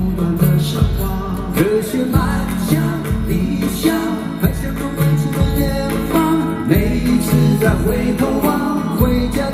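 Live pop-rock band music: bass, drums and guitar playing a song's instrumental passage on a steady beat, with no vocal line.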